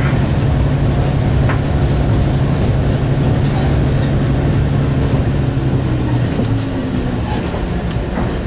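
The diesel engine of a single-car diesel railcar running steadily, heard from inside the passenger cabin. About six seconds in, the engine note drops lower, and a few sharp clicks follow near the end.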